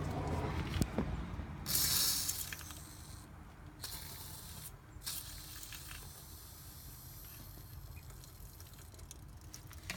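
WD-40 aerosol can spraying into an ATV differential to flush out water-contaminated oil: a loud hiss of about a second, then quieter spraying with brief pauses. A few handling knocks come before it.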